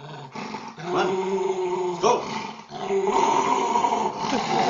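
Dog growling in two long, steady growls, with a short break and a brief sharp sound about two seconds in.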